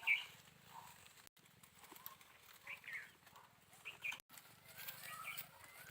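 Animal calls: several short, high chirpy calls, one just at the start, a pair close together about three seconds in and another pair about four seconds in, over a faint low hum.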